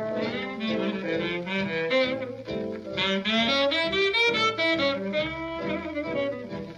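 Tenor saxophone taking a jazz solo, a busy run of notes over a small band's rhythm section, on an old 78 rpm record.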